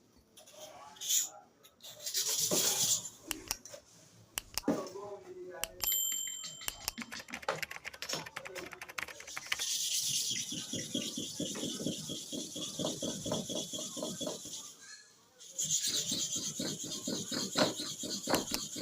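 Clipper blade rubbed rapidly back and forth on a sharpening stone in fast, even strokes, starting about halfway through and pausing briefly near the end. Before that come scattered clicks and a short metallic ring as the blade is handled.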